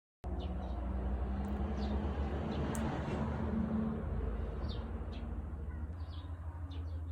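Small birds chirping, scattered short high calls, over a steady low rumble of outdoor background noise.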